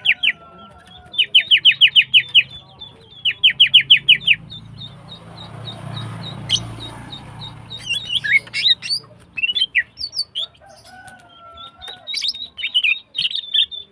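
Female greater green leafbird (cucak ijo) calling: three quick runs of loud, sharp chirps at about seven a second, then a row of faint ticks. From about eight seconds in comes a jumble of varied chirps and short notes.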